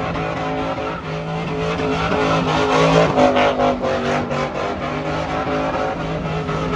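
Truck engine held at high revs during a burnout, its pitch stepping up and down, with tyre noise.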